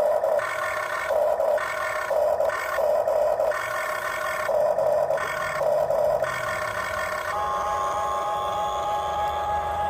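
Remote-control construction toy whirring in short on-off bursts, then one steady whine from about seven seconds in that cuts off near the end.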